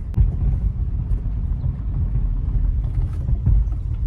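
A car driving, with a steady low rumble and a faint click or two.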